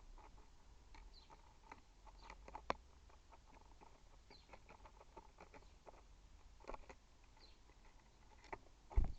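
Birds at a seed feeder: irregular light taps and clicks of beaks pecking on the feeder, with a few faint short high chirps, and a heavier knock with a low thud near the end.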